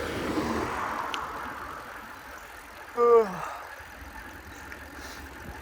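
Street traffic and wind noise heard from a moving bicycle, swelling over the first second and then easing. About three seconds in comes a short, loud pitched sound that falls in pitch, like a brief vocal 'ohh'.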